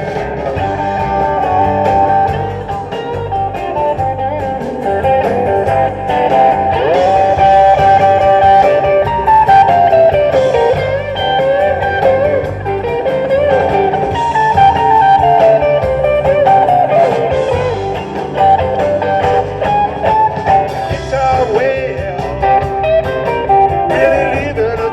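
Live rock and roll band playing an instrumental break, a lead guitar running quick melodic lines over bass and drums.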